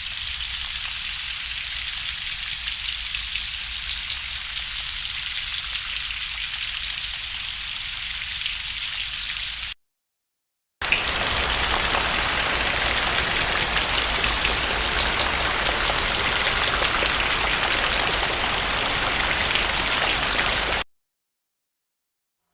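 Two steady, rain-like hiss sound effects of about ten seconds each, separated by a second of silence. The first is thin and high; the second is fuller, with more low rumble.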